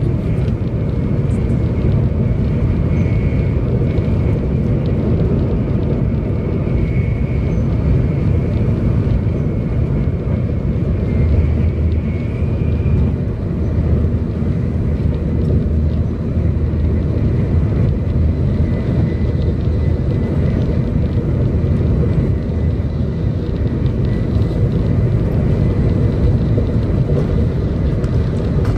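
Cabin noise of a 700 Series Shinkansen running at speed: a steady low rumble of the train on the track, with a faint high whine in the first half.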